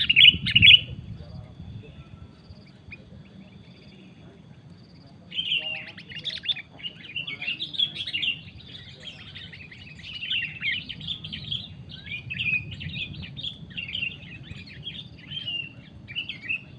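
Sooty-headed bulbuls calling: a short burst of chirps at the start, a lull, then from about five seconds in a dense, continuous run of quick chattering chirps.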